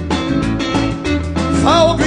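Live country band (dieselbilly) playing a driving beat with guitar, bass and drums between sung lines; the singer comes back in near the end.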